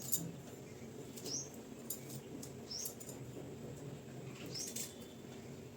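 A small bird chirping, with four short, high calls rising in pitch about every second and a half, and faint clicks in between.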